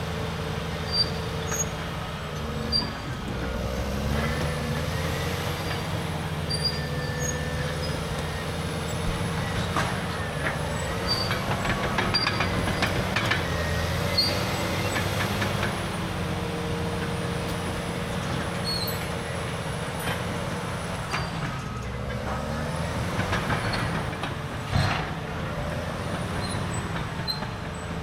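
Caterpillar D6R dozer's C9 diesel engine running steadily, its pitch shifting up and down a few times as it works, with several sharp knocks along the way.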